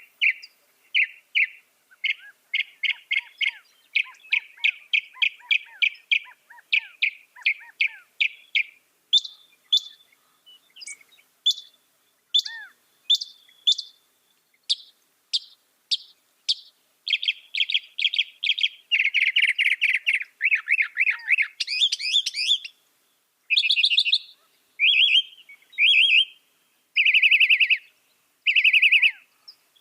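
Mockingbird singing: a long run of short notes, each phrase repeated several times before it switches to a different one. The phrases become fuller and buzzier about halfway through.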